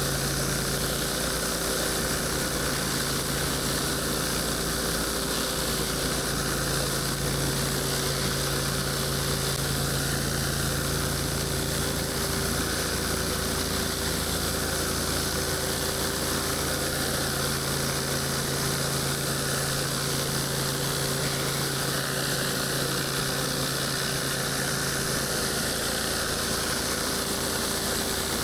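Pressure washer's gas engine running steadily at one constant pitch, over an even hiss of high-pressure water spray.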